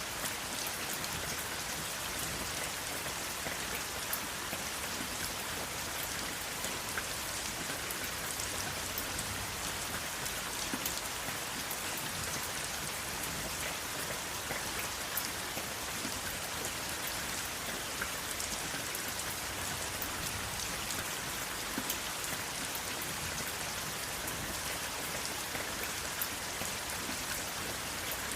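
Steady rain falling, with the patter of individual drops hitting a surface over an even hiss.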